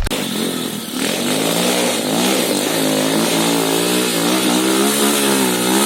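Trail motorcycle engine revving up and down as it labours up a steep dirt climb, the note rising and falling repeatedly.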